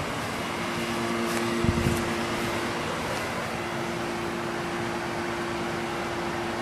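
York 'tombstone' central air conditioner condensing unit running: steady fan rush over a constant compressor hum. A couple of brief knocks come about two seconds in.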